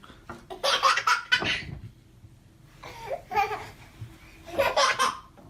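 A baby laughing in three breathy bouts, the first and longest about half a second in, the others near the middle and near the end.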